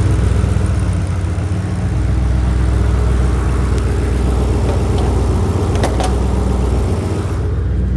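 Turbocharged V8 engine of a 2006 Saleen S281 Mustang running steadily.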